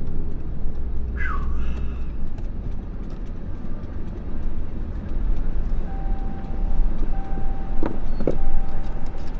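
Pickup truck running, with a steady low engine and road rumble. A short falling squeal comes about a second in, and a steady tone sounds on and off in the second half.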